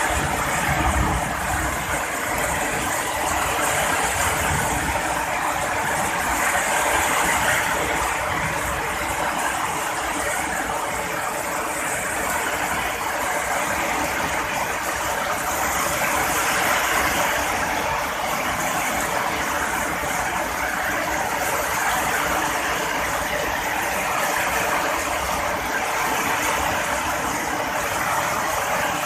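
Heavy rain falling as a steady, dense hiss, with a brief low rumble in the first second.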